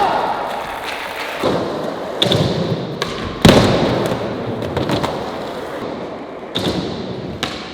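Skateboard wheels rolling with a steady rumble, broken by five sharp knocks of the board, the loudest about halfway through, as the board is popped and slams back down during a backside 360 double kickflip attempt.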